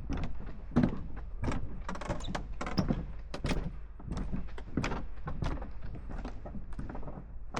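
Footsteps walking at a steady pace, about two to three steps a second, over a low steady rumble.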